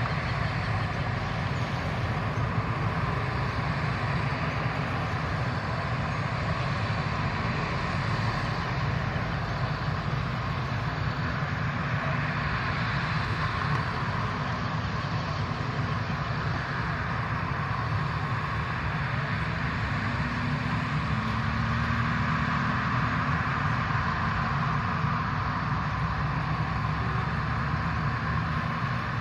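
Boeing 737-800's CFM56 jet engines running steadily at idle as the airliner taxis.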